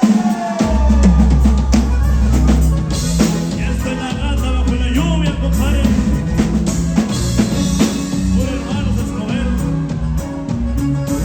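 Norteño band playing an instrumental intro, with drum kit and a deep bass line coming in about half a second in.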